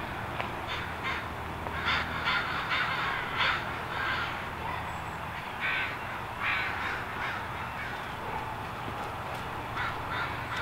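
Birds calling in short, repeated calls, bunched together about two to three seconds in and then scattered singly, over a steady low hum.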